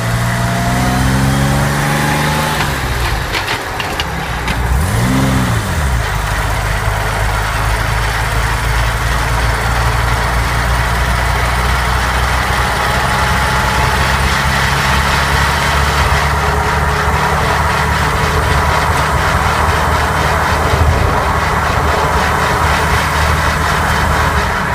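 Vehicle engine running under way, its pitch rising over the first couple of seconds and briefly rising and falling about five seconds in, then holding steady. A thin whine climbs slowly in pitch above the engine: gearbox noise.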